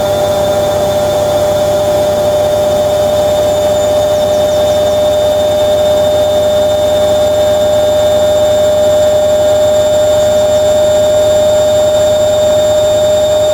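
Hoover Logic 1300 washing machine spinning its drum at a steady speed, a loud steady motor whine over a rush of spinning noise.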